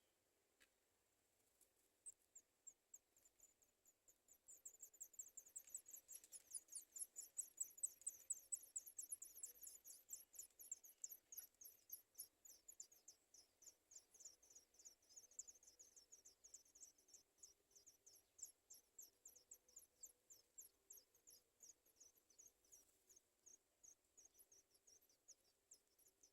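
Sooty chat nestlings giving rapid, high-pitched begging calls, several a second: baby birds begging for food. The calls start about two seconds in, swell to their loudest about a third of the way through, then carry on a little weaker.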